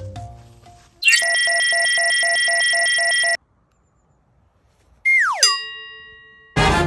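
Synthetic sound effects: a steady electronic tone with a pulsing undertone that holds for about two seconds and cuts off. After a gap comes a quick falling whistle that settles into a fading ringing tone, then a loud noisy hit near the end.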